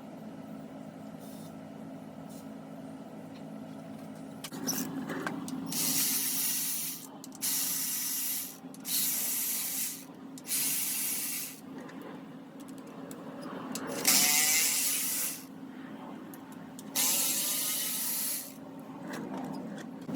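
A run of hissing spray bursts, each about a second long, six of them from about a quarter of the way in, over a steady low hum.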